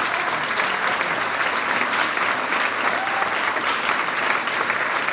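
Audience applauding steadily after a line in a campaign speech, with some cheering.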